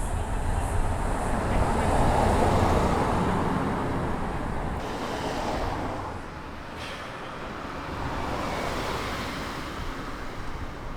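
A car driving past, loudest about two seconds in and dying away by about six seconds; a quieter vehicle swells past near the end.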